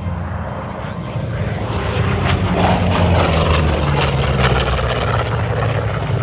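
Propeller aircraft engine running loud, swelling about two seconds in as the plane makes a pass, then holding.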